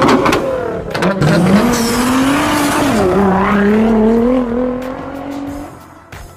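Car engine revving: its pitch climbs about a second in, dips and settles into a steady hold, then fades out near the end.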